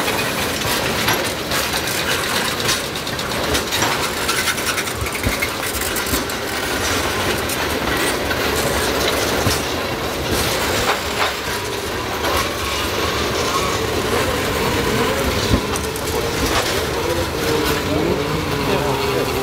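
Freight train of tank cars rolling past at close range: a steady rumble of wheels on rail with rapid clicking over the joints. In the second half a wavering squeal from the wheels joins in.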